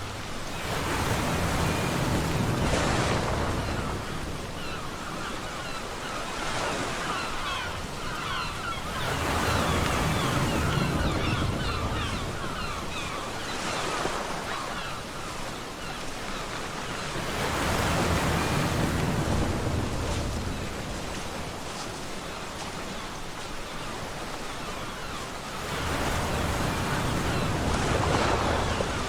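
Ocean waves breaking on a beach: a surge of surf about every eight seconds, four in all, with a steady wash between.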